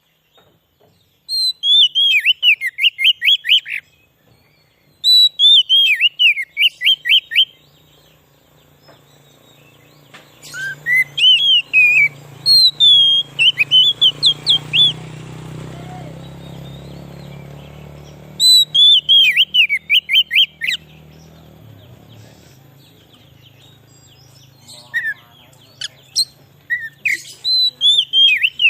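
Oriental magpie-robin (kacer) singing: five loud phrases of quick, sharp whistled notes, each note sweeping downward, every phrase lasting two to three seconds with pauses between. A faint low drone runs under the song through the middle.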